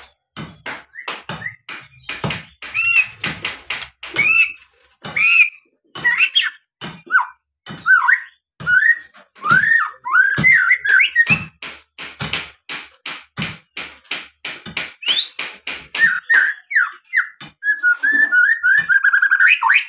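White-rumped shama (murai batu) singing: loud whistled phrases that bend in pitch, mixed with many sharp clicking notes, building to a fast run of repeated notes near the end.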